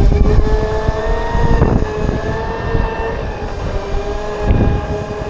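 A Segway's electric motors whine steadily while riding, holding one pitch, over a low rumble that swells twice.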